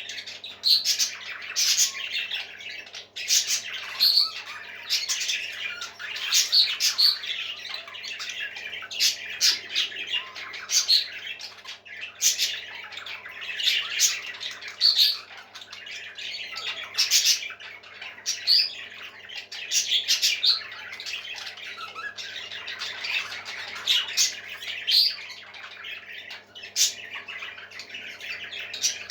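Parrots squawking, short calls repeating one after another about once or twice a second without a break.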